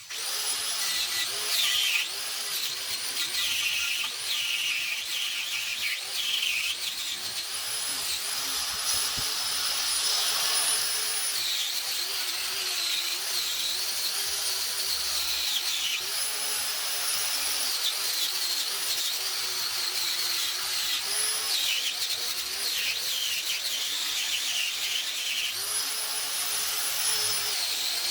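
High-speed power tool running in repeated spells, its high whine holding steady, then dropping and recovering each time it is pressed into the work, over a grinding, scraping noise.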